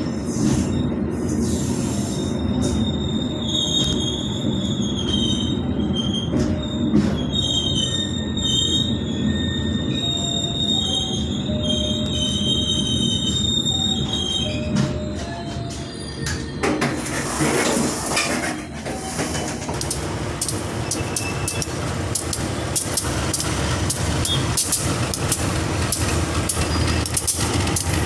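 Ballast train's wagon wheels running on the rails with a steady rumble. For the first half a high wavering wheel squeal rings out; it fades at about the middle, giving way to a rougher rattle with many sharp clicks.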